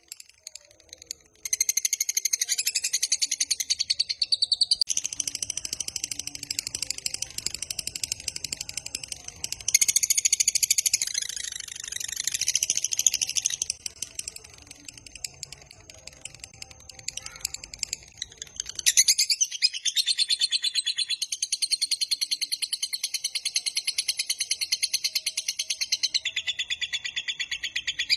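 Lovebird singing its long, rapid chattering song (ngekek), high-pitched and running on in long unbroken stretches. It starts about a second and a half in, softens for a few seconds past the middle, then comes back strongly.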